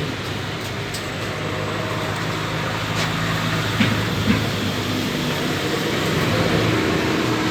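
A steady mechanical running noise with a low hum, with a few small clicks about three to four seconds in.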